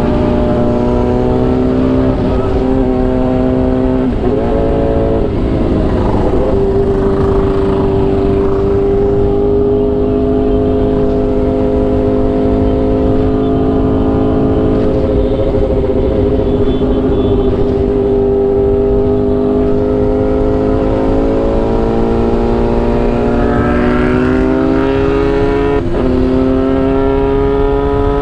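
Motorcycle engine running at steady revs under a low rush of wind. The pitch wavers about five seconds in, and near the end it climbs, then drops suddenly.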